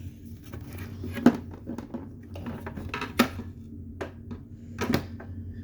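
Hard plastic parts of an old Hoover upright vacuum being handled: four or five sharp clicks and knocks, spaced about a second apart, over a low steady hum.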